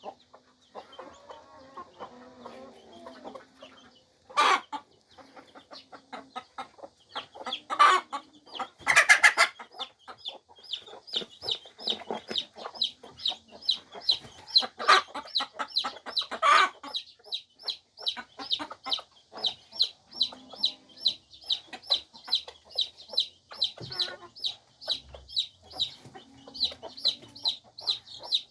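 Cheonggye chicks peeping in rapid high chirps, about three a second, with a hen's low clucking at times. A few louder, sharp sounds stand out in the first half.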